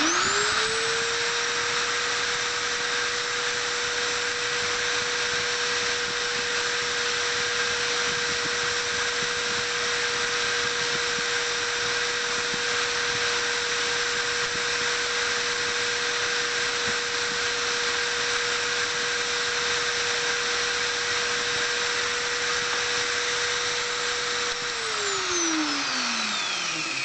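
Drill press motor starting up, quickly reaching speed and running steadily with a constant whine over a hiss, then switched off about 25 seconds in, its pitch falling as it spins down.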